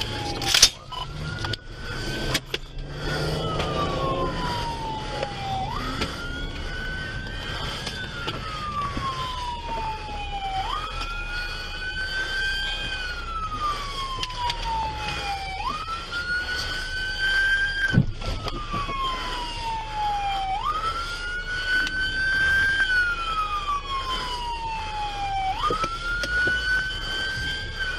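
Police car siren wailing: each cycle jumps up, climbs slowly, then falls over about three seconds, repeating roughly every five seconds, with a second fainter siren sounding higher. A few sharp knocks come near the start and one about two-thirds through.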